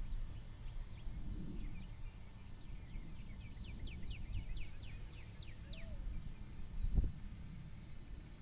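A songbird sings a run of about a dozen short, high, downslurred whistled notes, evenly spaced, over a steady low rumble of wind on the microphone. A thin high buzzy trill starts near the end, and there is a soft thump about 7 seconds in.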